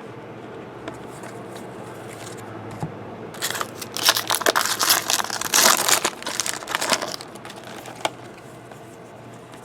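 Plastic or foil trading-card packaging crinkling as it is handled, for about three and a half seconds near the middle, with quieter rustling before and after.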